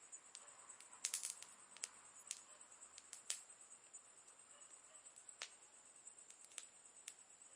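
Faint campfire crackle: burning wood giving sharp pops and snaps, a quick cluster of them about a second in, then single pops every second or so.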